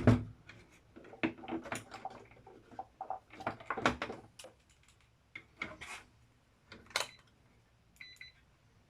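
A run of small clicks and knocks from handling the meter, probes and cable, then a short electronic beep about eight seconds in, typical of a multimeter on its continuity buzzer setting.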